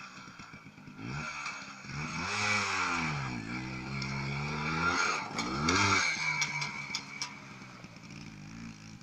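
Motorcycle engine accelerating hard after a countdown start, its pitch climbing and dropping several times through gear changes, loudest around two and six seconds in, then fading as the bike runs away.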